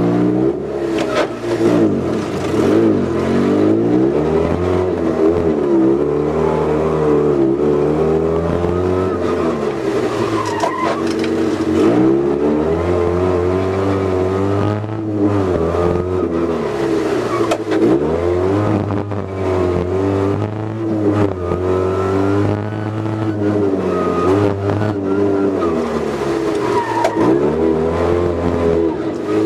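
Fiat 126p's air-cooled two-cylinder engine, heard from inside the cabin, revving hard and dropping back over and over as the driver works through the gears and brakes for corners.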